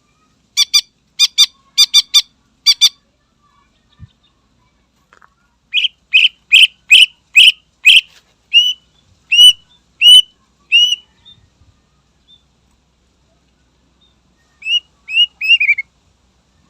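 Greater green leafbird (cucak ijo) singing in full voice: a quick run of short, sharp notes, then, after a pause, a longer series of loud whistled notes that hook upward, and near the end four quick notes falling in pitch.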